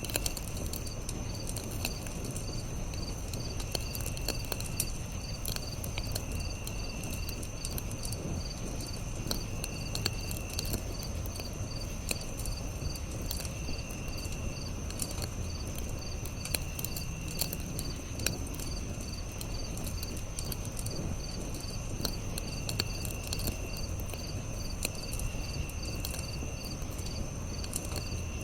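Campfire crackling, with scattered sharp pops over a low steady rumble, against a chorus of night insects: a steady high, rapidly pulsing chirp and a lower trill that comes in for about a second every few seconds.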